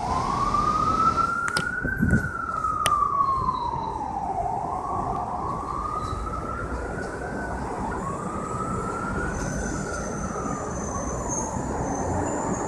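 Emergency vehicle siren in a slow wail, its pitch rising and falling about every four to five seconds, over a steady background rumble. Two short clicks come in the first three seconds.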